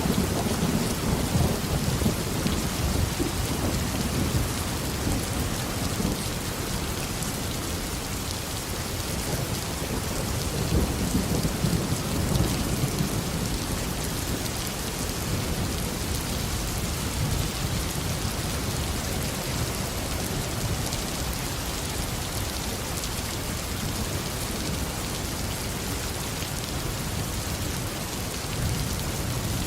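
Heavy tropical rain falling steadily, with low rolling thunder rumbling in the background, swelling near the start and again about ten seconds in.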